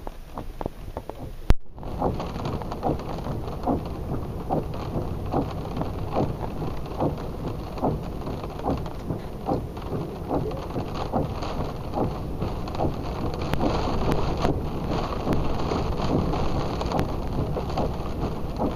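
Windstorm with wind-driven rain and sea spray striking a surface in many sharp taps, over a steady low rumble of wind and surf. A single sharp click about a second and a half in, with a brief dropout after it.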